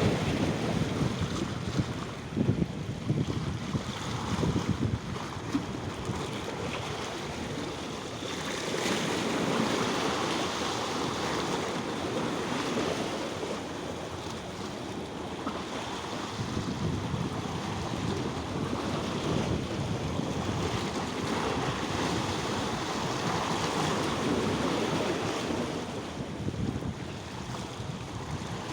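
Water washing in and out, a continuous rush that swells and eases every several seconds like surf, with wind on the microphone.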